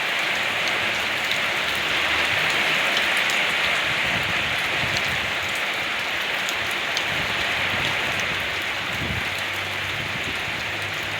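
Steady, heavy rain falling on a surface, a dense hiss with individual drops ticking sharply through it. A faint low rumble comes and goes underneath from about two seconds in.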